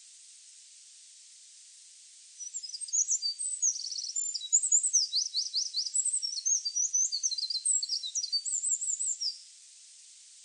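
A songbird singing one long, fast, intricate song of high-pitched chirps, trills and quick downward-sweeping notes, starting a couple of seconds in and stopping about a second before the end, over a steady high hiss.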